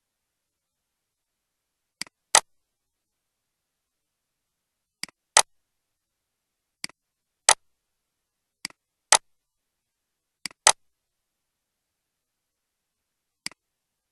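Six pairs of short, sharp clicks at uneven intervals, each pair a fainter click followed a fraction of a second later by a louder one.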